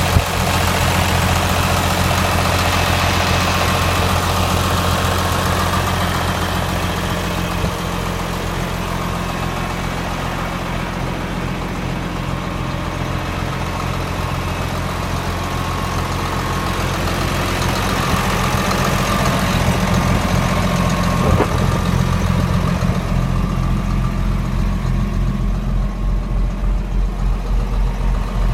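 John Deere 4450 tractor's six-cylinder turbo diesel engine running steadily. In the last few seconds it settles into a lower, slower pulsing idle.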